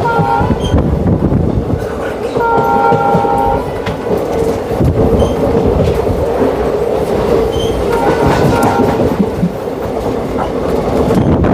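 Indian Railways express train running with steady wheel and track rattle. A multi-tone train horn sounds three times: a short toot at the start, a longer blast of about a second a couple of seconds in, and another short blast near the end.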